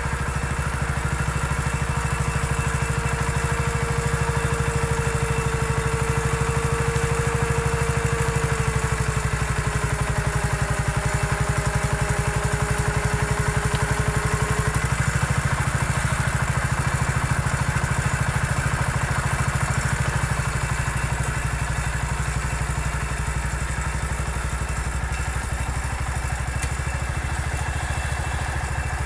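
Small engine of an MF 14 garden-tractor bulldozer running steadily under way. A thin whine rides over it, drops slightly in pitch and stops about halfway through.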